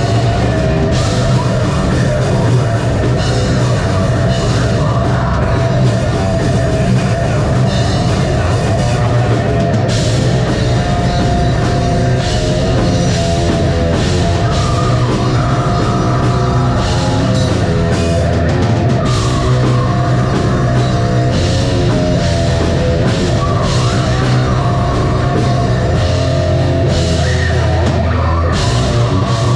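Live heavy metal band playing loud and without a break: distorted guitars, bass and a pounding drum kit, recorded from the audience.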